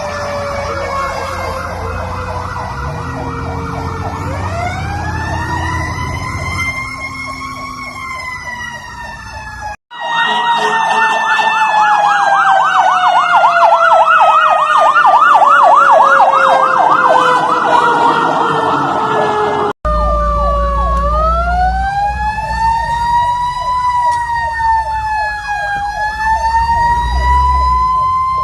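Fire engine sirens sounding on emergency runs: a slow rising and falling wail overlaid with a fast yelping warble, over the trucks' engine rumble. The sound cuts abruptly twice between clips.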